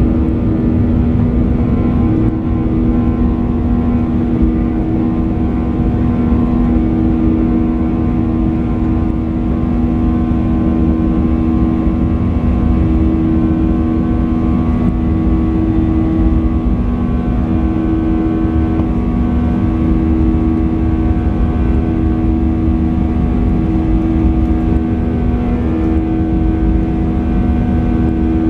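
Boeing 737-800's CFM56 jet engines running at high power, heard inside the passenger cabin: a loud, steady low rumble of engine and airflow noise with a steady droning hum.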